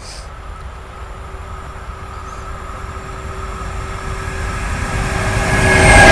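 Electric-hauled freight train approaching and arriving alongside. Its running noise grows steadily louder until the locomotive draws level near the end, with a steady tone heard above it until then.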